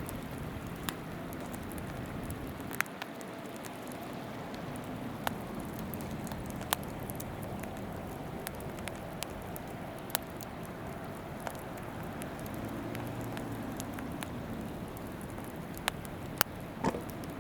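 Wood campfire crackling, with sharp pops every few seconds over the steady rush of a flowing river.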